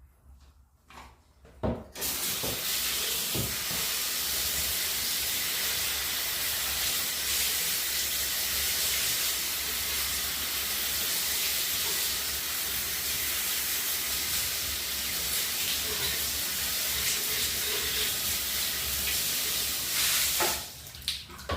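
Dyson Wash G1 wet floor cleaner switched on and running steadily: an even hiss over a low hum. It starts about two seconds in, just after a click, and cuts off about a second before the end.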